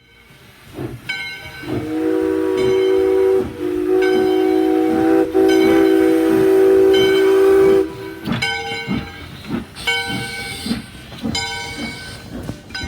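Steam locomotive blowing its chime whistle in long blasts from about two seconds in until about eight seconds, with two short breaks. The locomotive bell rings steadily throughout, over the hiss and chuff of the engine.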